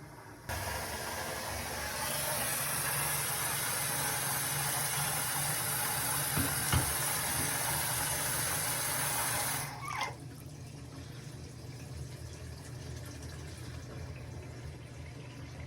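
Water running from a tap into a sink and down the drain, testing a newly replaced drain line. The flow starts about half a second in, runs steadily, and is shut off a little before two-thirds of the way through, leaving a quieter steady background.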